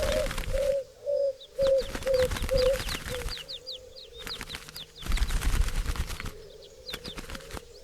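Doves cooing in short, low, wavering notes over many quick, high, falling chirps from small birds, with stretches of rustling noise. The sound drops out briefly a few times.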